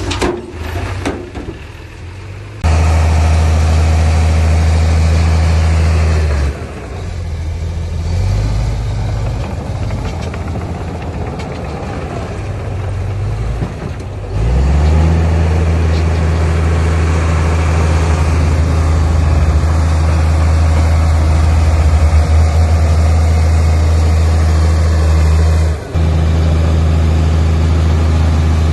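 Heavy diesel engine of earthmoving machinery running with a steady low drone. It comes in abruptly a few seconds in, falls back for several seconds, then returns strongly about halfway through, with a brief dip near the end.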